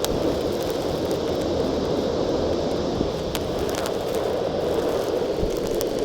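Vacuum cleaner running steadily while sucking up small rocks, with scattered clicks as stones rattle through it.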